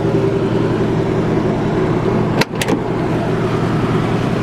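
Chevy 350 V8 with headers and dual exhaust idling steadily. A little past halfway there is a brief dip, then a couple of sharp clicks.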